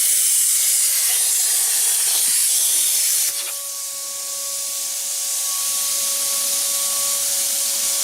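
A loud, steady hiss with a constant whine under it, from a tool running during the car teardown. It drops suddenly about three seconds in and builds back up.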